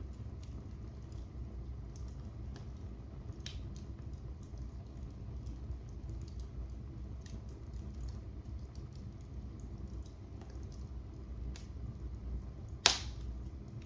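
Wood fire crackling in a fireplace: a steady low rumble with scattered sharp crackles, and one loud pop near the end.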